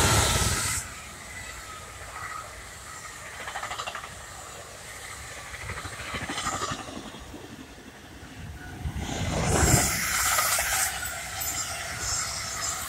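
NJ Transit electric passenger train of bilevel coaches passing close by at speed. A loud rush as the locomotive goes by at the start, then the steady rumble and rush of the coaches' wheels on the rails, swelling again about nine to ten seconds in.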